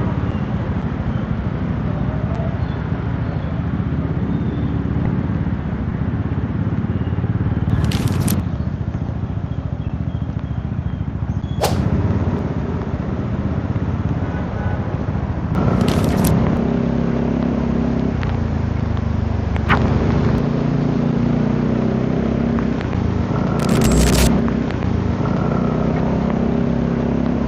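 Yamaha XMAX 250 scooter on the move: its single-cylinder engine running under a steady rush of wind on the microphone. The engine note comes up more clearly in the second half, with a few brief sharp bursts of noise.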